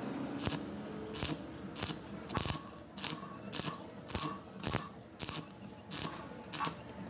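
A regular series of sharp taps, roughly one every half second, several of them followed by a brief metallic ring.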